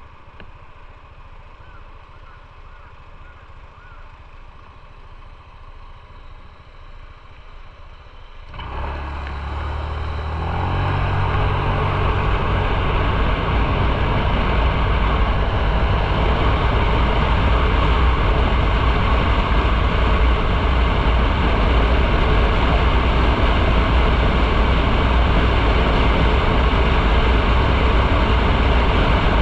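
Motorcycle engine idling quietly, then about eight seconds in it opens up and the bike pulls away. After that comes steady, much louder riding noise: the engine running under way with a broad rushing noise over it.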